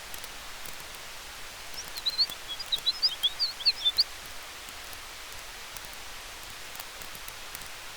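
Steady soft hiss of a campfire and wind in the trees, with a few faint crackles. About two seconds in, a small bird gives a quick run of high chirps lasting about two seconds.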